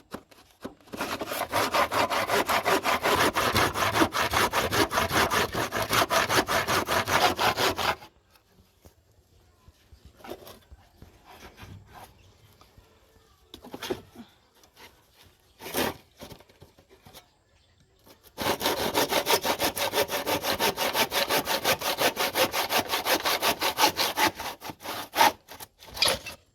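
Hand saw cutting wood in rapid, even back-and-forth strokes, in two long runs with a pause of about ten seconds between them. A few scattered knocks fall in the pause.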